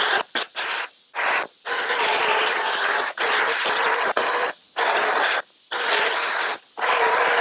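Chainsaw running at speed and cutting into wood, in bursts of about half a second to a second and a half that start and stop suddenly, with short quiet gaps between.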